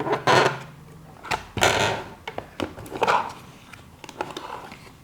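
Small plastic toy pieces being handled: a string of light clicks and taps, with three short scraping rustles, and a small part snapping or sliding shut.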